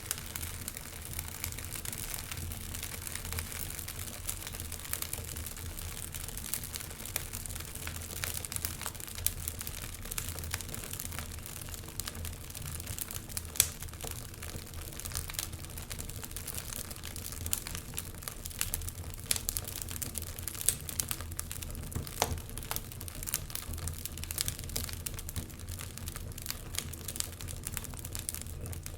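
Wood fire in a fireplace crackling, with frequent sharp pops and snaps over a low steady rumble.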